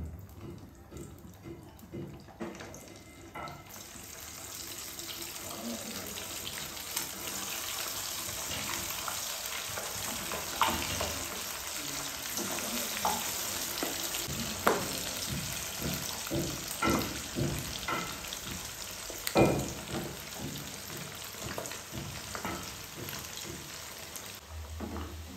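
Chicken pieces deep-frying in hot oil in a nonstick pan for chicken pickle: the pieces were cooked dry first and are now being fried a second time. The sizzling starts a few seconds in, once the chicken is dropped in, then settles into a steady hiss with scattered sharp pops and clicks.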